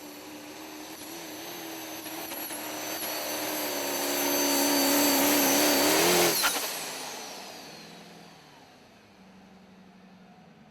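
Turbocharged super stock diesel pulling truck at full throttle, its engine and high turbo whistle growing steadily louder. About six seconds in the power cuts off abruptly, and the turbo whine winds down in pitch as the sound fades.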